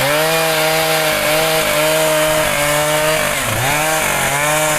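Two-stroke chainsaw running at full throttle cutting into mahogany wood, its engine note steady and high, dipping briefly twice near the end and picking back up.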